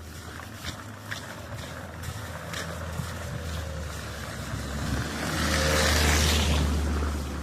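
A motor vehicle passing close by: a steady low engine hum under a hiss of tyres that swells, is loudest about six seconds in, then fades.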